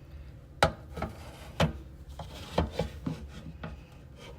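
Plastic fruit storage container and its colander being handled: a run of about seven sharp knocks with some rubbing and scraping between them.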